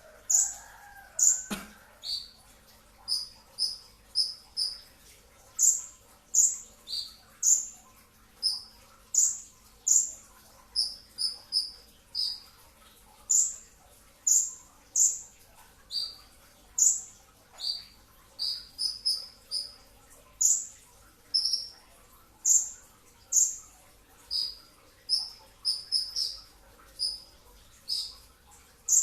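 A kolibri ninja sunbird calling: short, sharp high chirps repeated about once or twice a second, some coming in quick clusters of two to four, in a dense run of the 'shots' that bird keepers prize.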